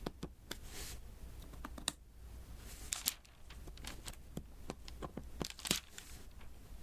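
Diamond painting at work: small resin drills tapped one by one onto the sticky adhesive canvas. Irregular small sharp clicks, with a few short sticky crackling sounds among them.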